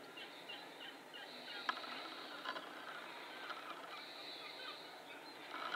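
Birds chirping and twittering in many short, high calls, with a faint steady hiss beneath and a single sharp click about a second and a half in.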